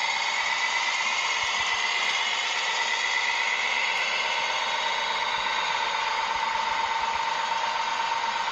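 Small electric motor and plastic gearbox of a radio-controlled construction model running with a steady whine that drifts slightly in pitch.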